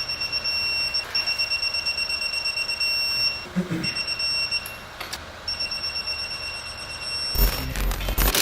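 A high-pitched electronic tone, pulsing rapidly and cutting out and restarting several times. About seven seconds in, a louder clattering noise starts.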